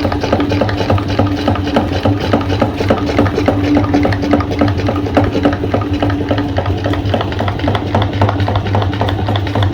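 Electric meat grinder running steadily with a low motor hum and a fast, even run of clicks and crunches as it grinds Oreo cookies.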